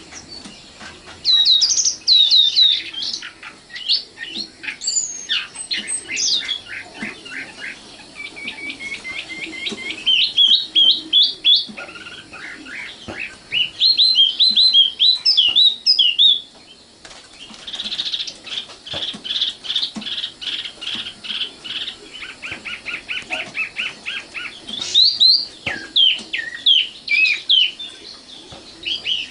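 Common nightingale singing a varied song: quick runs of repeated notes, rattling trills and whistled phrases that change every few seconds, with a brief pause about two thirds of the way through.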